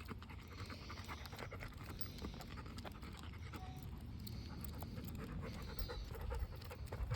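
Dog panting, with scattered small clicks and a low rumble underneath.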